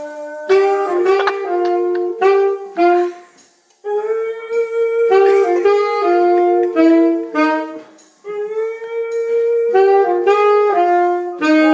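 Music: a saxophone playing a jazzy melody in phrases of short notes, breaking off briefly twice.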